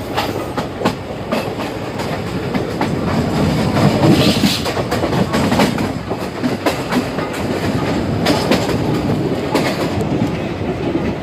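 Moving passenger train heard from its open doorway: a steady loud running rumble with the wheels clattering over rail joints in frequent irregular clicks.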